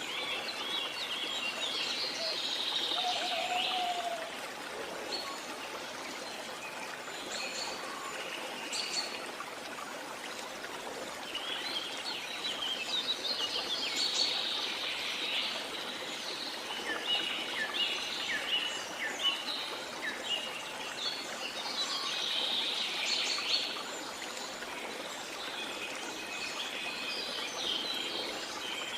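Small songbirds chirping and twittering in repeated bursts over a steady wash of sea water.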